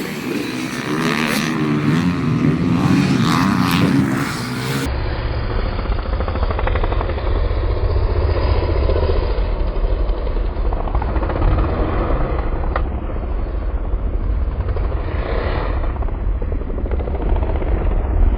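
Motocross bike engines on a dirt track. A bike is heard close, its engine pitch rising and falling, then after a cut about five seconds in a muffled recording with a heavy low rumble under the engine sound.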